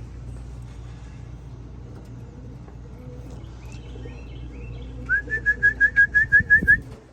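Electronic pigeon-race timing system beeping rapidly, about ten short high beeps, as the arriving racing pigeon is registered through the trap. A steady low hum runs underneath.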